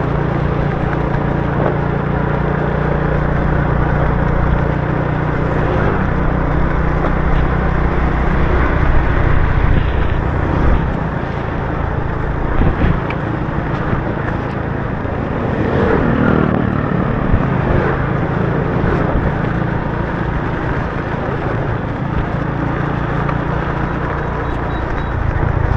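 Motorbike engine running steadily while riding on a wet road in the rain, under a constant hiss of rain and tyre spray, with a brief swell of noise a little past the middle.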